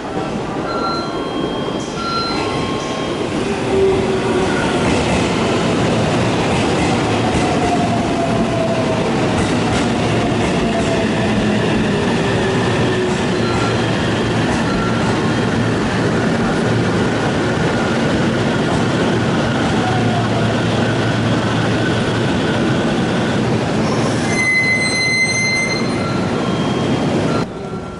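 Iida Line electric train running on the rails with a steady rolling rumble and slow rising and falling whines. Near the end a high-pitched wheel squeal sounds for about three seconds before the sound cuts off suddenly.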